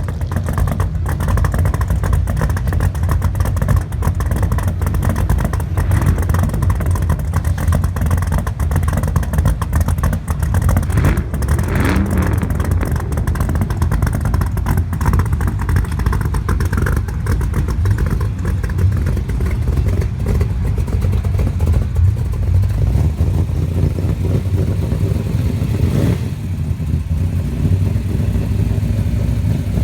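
A 572 cubic-inch big-block Chevy V8 in a pro-street GMC Sierra truck running loud and steady, with a brief rise and fall in pitch about twelve seconds in.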